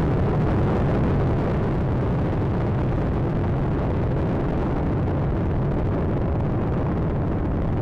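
Space Shuttle Atlantis's twin solid rocket boosters and three main engines during ascent: a steady, deep rumble with little high end and no breaks.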